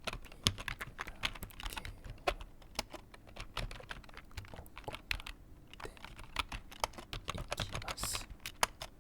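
Typing on a computer keyboard: quick, irregular key clicks, several a second, with no pause.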